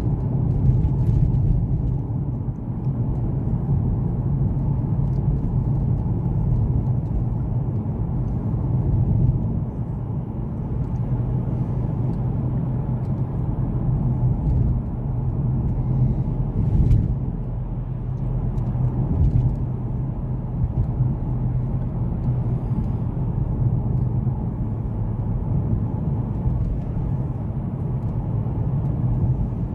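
Car cabin noise while driving: a steady engine hum and low road rumble from the tyres, with one brief knock about 17 seconds in.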